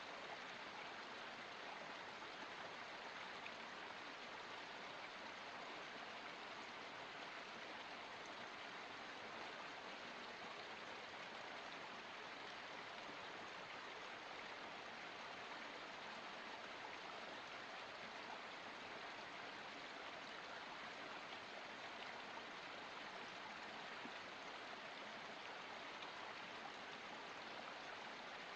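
Forest spring water running over rocks, a steady, even babble.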